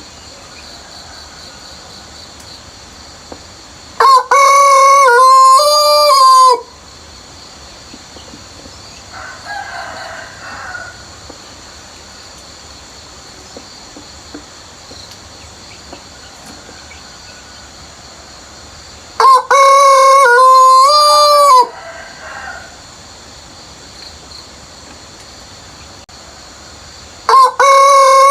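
Rooster crowing loudly three times, each crow a short opening note followed by a long held call of about two seconds; the third starts near the end. A fainter call from another bird comes between the first two crows, over a steady high hum.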